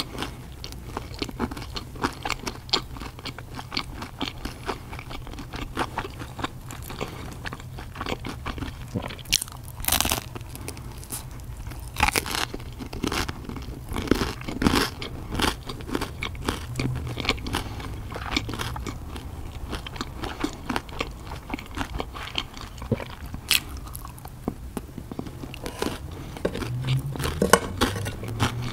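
Close-miked eating: a person chewing and crunching bites of pizza, with many irregular sharp crunches, over a steady low hum.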